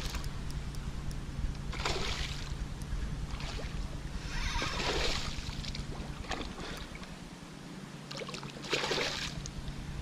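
Wind buffeting the microphone, a steady low rumble that eases briefly near the end. Over it come brief rushes of noise a few seconds apart.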